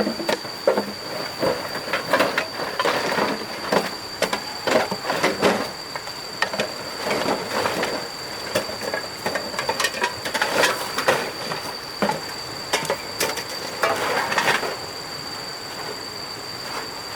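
Irregular knocks, clicks and scraping, as of hard objects being handled and moved, over a steady high-pitched whine.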